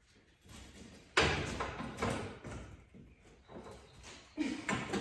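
Pry bar working a stubborn piece of old painted wooden trim loose from the wall: a sudden loud knock about a second in, then a run of irregular knocks and scraping as the wood gives.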